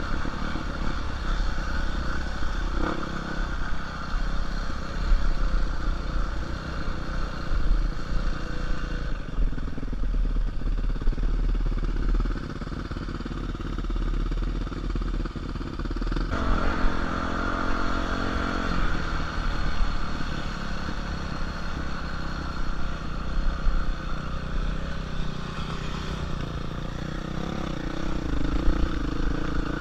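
Dirt bike engine running continuously, its pitch and load changing with the throttle, with buffeting wind on the helmet or bike camera and clattering over the rough trail.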